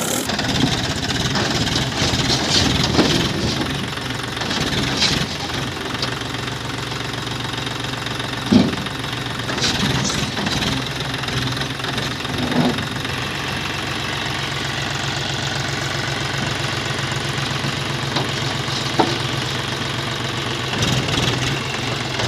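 John Deere tractor engine running steadily with a fast, even throb. A few sharp knocks or clunks sound over it, the loudest about a third of the way in.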